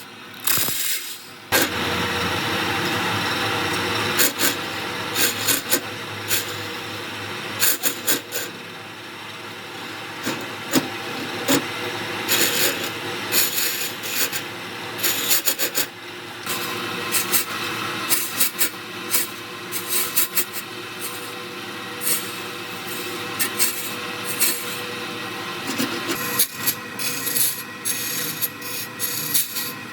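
Lathe running while a spinning epoxy-and-wood blank is worked, a continuous rasping scrape over the steady hum of the machine with scattered sharp ticks. The rasping starts about a second and a half in and dips briefly twice later on.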